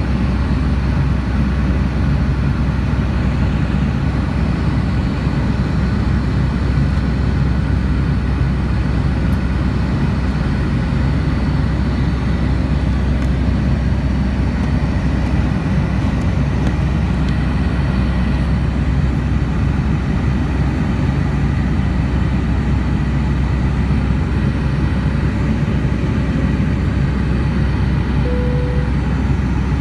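Steady cabin noise of a Boeing 757 in flight: engine and airflow rumble, low and unbroken. A short single-pitch beep sounds near the end.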